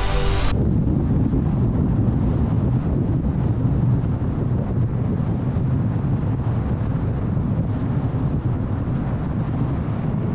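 Car driving at freeway speed: steady low rumble of tyre and road noise with wind. Music cuts off about half a second in.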